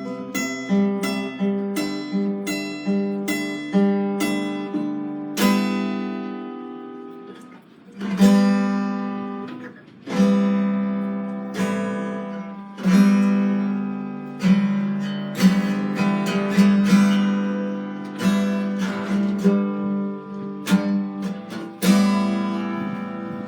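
Acoustic guitar played solo: quick picked notes for the first few seconds, then slower strummed chords left to ring out, a few seconds apart.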